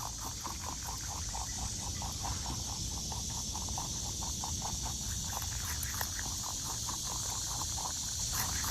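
Rapid, evenly repeated animal calls, about four to five a second, over a steady high hiss of natural ambience.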